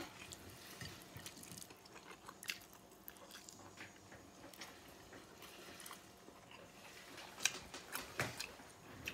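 Close-up chewing and mouth smacking of a person eating rice and meat by hand from a paper plate, with scattered small clicks and a few louder smacks near the end.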